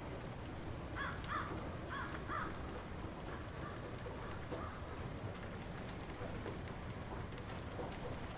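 Light rain falling steadily. A bird calls a few short times, between about one and two and a half seconds in.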